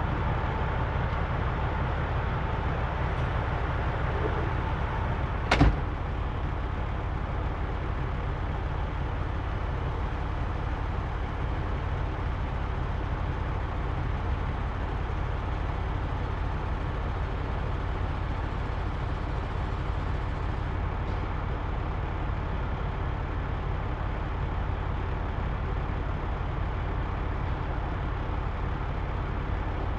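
Semi truck's diesel engine idling steadily with a low rumble. A single sharp bang, like a door shutting, about five and a half seconds in.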